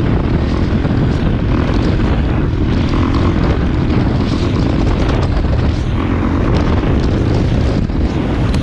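2019 Kawasaki KX450F's single-cylinder four-stroke engine running steadily through a Pro Circuit aftermarket exhaust, with a lot of thump.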